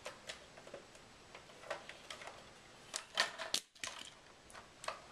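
Scattered faint clicks and taps from a toy garbage truck being handled, with a few louder clicks about three seconds in.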